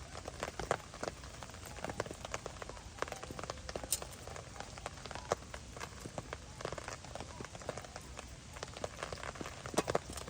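Rain falling, with many irregular drops striking close by and a few sharper hits standing out, about four seconds in and near the end.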